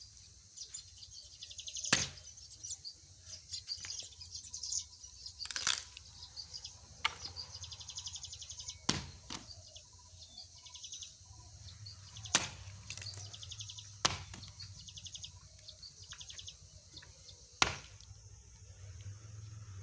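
Wood being chopped: about eight sharp single blows, irregularly spaced a second or few apart. Birds chirp and trill between the strokes.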